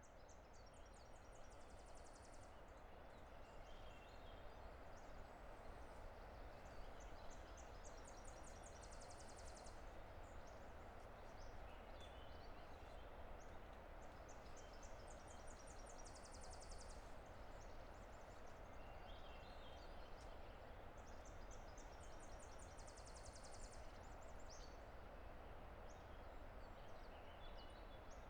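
Faint, steady roar of a distant river, with a songbird repeating a short song every seven to eight seconds: a few quick notes running into a high, rapid trill about a second long.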